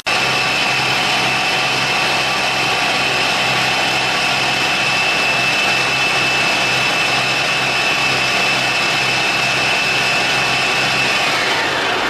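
An engine running hard at a steady high speed, its pitch sliding down about a second before the end as it slows.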